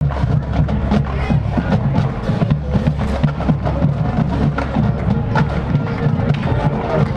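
Marching band playing, dominated by a busy drumline with rapid, rhythmic drum strikes over a steady low bass.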